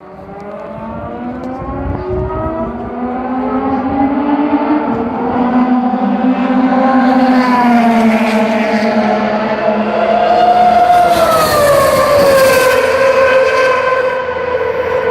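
Ferrari Formula One car engine at high revs, passing by. Its screaming note climbs as it approaches and grows loud, then drops in pitch about eleven seconds in as it goes past and fades.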